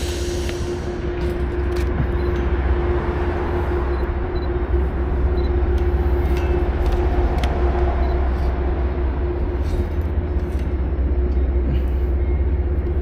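Steady vehicle noise: a low rumble with a constant droning hum that holds throughout.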